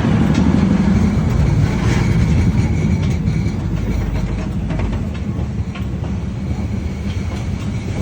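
Train passing close by: a steady low rumble of wheels on the rails with occasional clacks, easing off a little after about five seconds.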